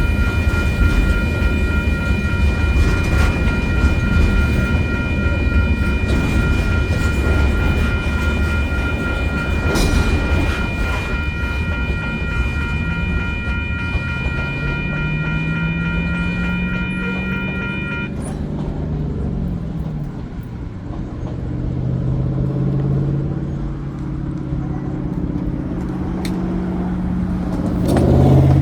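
Freight train rolling past with a heavy low rumble, while a railroad grade crossing's warning bell rings steadily and then stops abruptly about two-thirds of the way through. In the last third, road vehicle engines rise and fall in pitch as traffic moves off.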